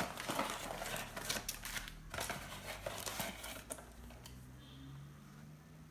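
Trading card packaging being torn open and handled: crinkling wrapper and cardboard, with a quick run of crackles for the first two seconds and a few more before it settles down.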